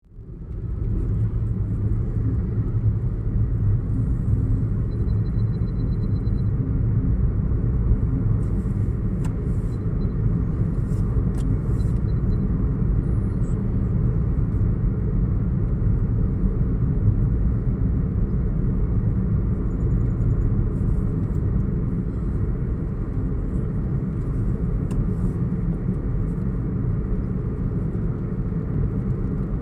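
Steady low rumble of a car driving along city streets, with a few faint clicks.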